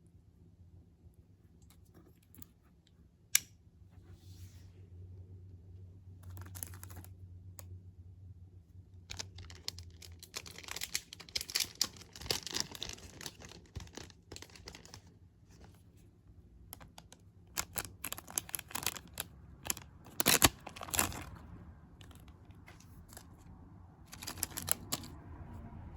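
Packaging being handled during an unboxing: intermittent rustling, crinkling and tearing, with a sharp click a few seconds in and a few small knocks.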